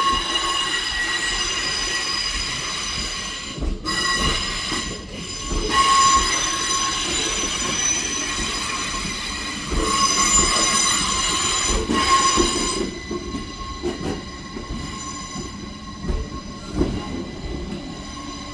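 Northern Class 333 electric multiple unit pulling out of a station, with a steady high-pitched whine over the rumble of the wheels on the rails. It fades about thirteen seconds in as the train moves away.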